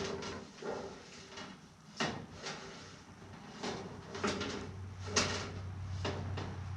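A scattered series of light knocks and clatters, irregularly spaced, with a faint low hum coming in about five seconds in.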